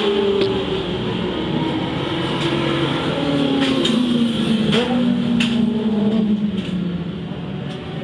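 Vehicle engine heard on board at a race circuit. Its pitch falls over the first few seconds as it slows, holds at a lower pitch, then eases off near the end, with scattered short clicks.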